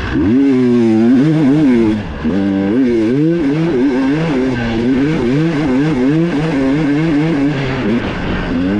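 Dirt bike engine heard from on board, revving up sharply, then rising and falling with the throttle about twice a second, with a brief drop in revs about two seconds in.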